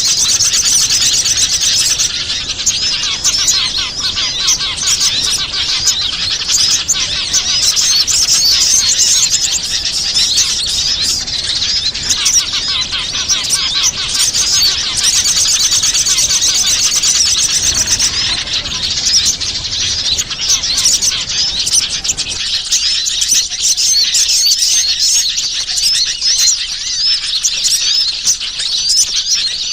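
Dense chorus of many small birds chirping and twittering continuously, with fast overlapping high trills: a bird-lure recording of wild small birds' calls.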